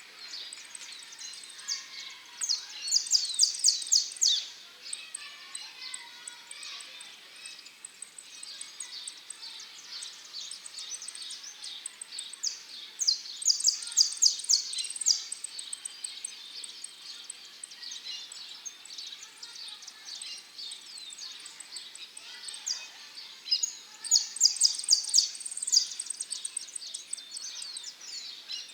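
Saffron finch (dorado) singing in a contest: three loud phrases of fast, rapidly repeated high notes, about ten seconds apart, with softer continuous chirping in between.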